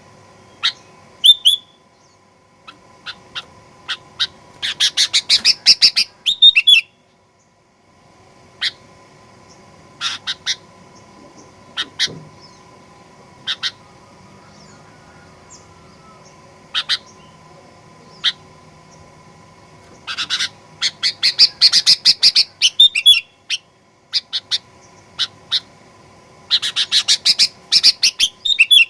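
Sooty-headed bulbul (kutilang) calling in an agitated, fighting mood: scattered single sharp notes broken by fast chattering runs about five seconds in, around twenty seconds in, and near the end.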